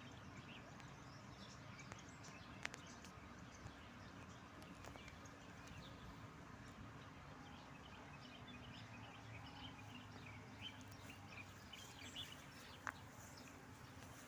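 Small birds chirping faintly on and off over a low steady background hiss, the chirps busiest in the second half, with a couple of sharp clicks.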